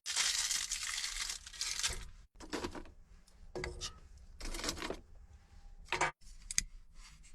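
Crinkly material being crumpled and torn: one long rustling stretch of about two seconds, then several shorter bursts. This is handling while a homemade heating stove is made ready to light.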